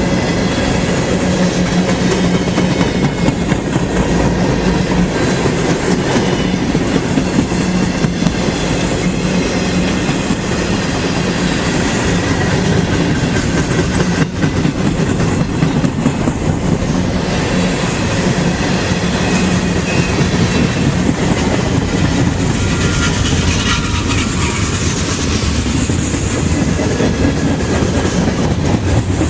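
Canadian Pacific freight train rolling past, its wheels clicking over the rail joints. A steady low hum under the rolling fades about two-thirds of the way through.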